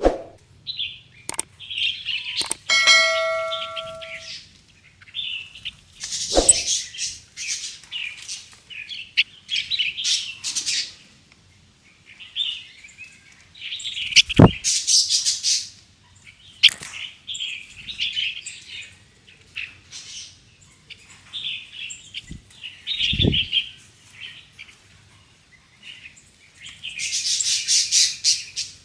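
Songbirds chirping and twittering, many short overlapping calls with denser bursts of song. A brief ringing tone sounds about three seconds in, and three dull knocks are heard along the way.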